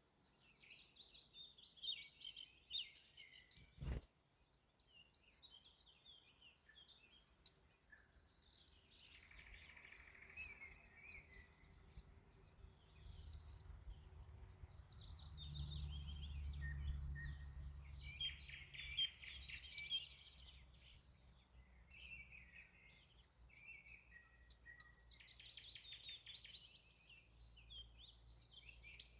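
Wild songbirds singing in repeated trilling phrases, faint. A single sharp click about four seconds in, and a low rumble that swells and fades in the middle.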